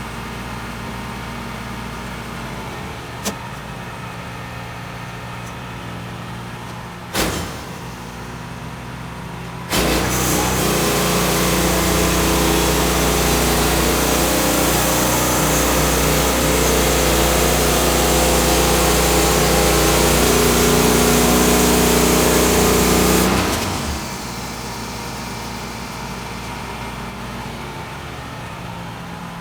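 Portable bandsaw sawmill's petrol engine running steadily, with two sharp knocks. About ten seconds in it gets much louder, with a hiss over the engine, for about fourteen seconds: the mill under full throttle making a cut. It then drops back to a quieter run.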